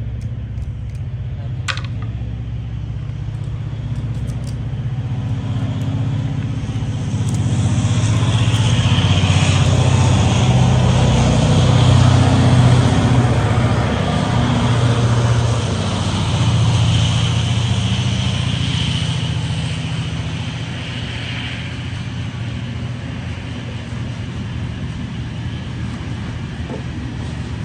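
A train passing: a heavy low rumble that swells to its loudest about halfway through, with a high metallic whine over it, then eases back to a steadier rumble.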